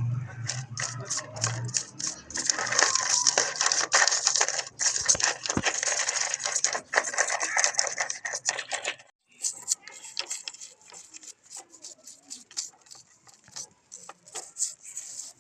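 Motorcycle chain and hand tools clicking, rattling and scraping, metal on metal, as a link is worked out of the chain. The sound is dense and scraping at first, stops briefly about nine seconds in, then goes on as sparser clicks.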